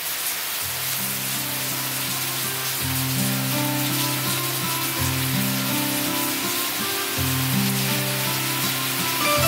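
Steady hiss of rain falling on pavement and lawn, with background music of low sustained notes that change chord about every two seconds.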